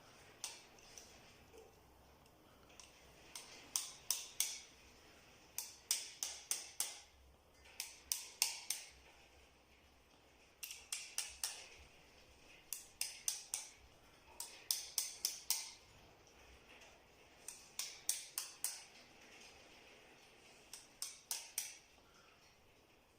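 Repeated short runs of sharp clicks, four to six quick ones at a time, coming every couple of seconds.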